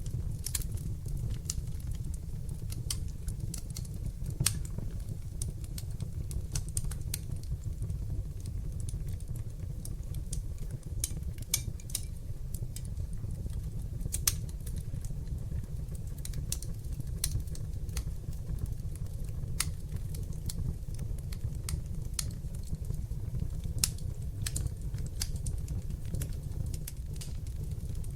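Fire burning in a fireplace: a steady low rumble of flames with irregular sharp crackles and pops throughout, a few of them louder than the rest.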